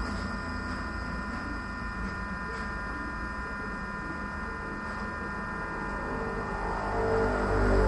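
Steady hum with several held tones sounding together, growing a little louder near the end.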